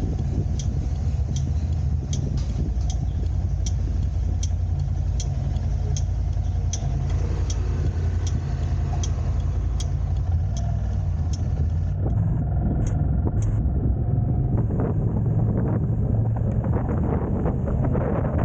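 A car driving, with a steady low rumble of engine, tyres and wind. For the first two-thirds there is an even ticking about once every three-quarters of a second, like a turn signal, which then stops.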